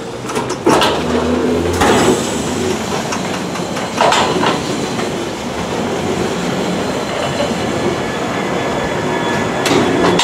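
London Underground 1972 Stock train pulling away from the platform, its wheels knocking over rail joints every couple of seconds over a steady motor hum, with the motor tones starting to rise near the end as it gathers speed.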